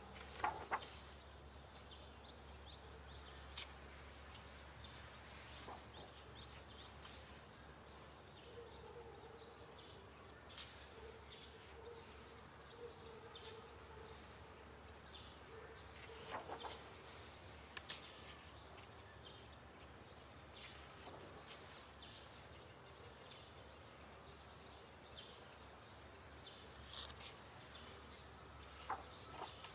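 Paper pages of a coloring book being turned by hand now and then, each turn a short rustle or flap, over a faint steady background.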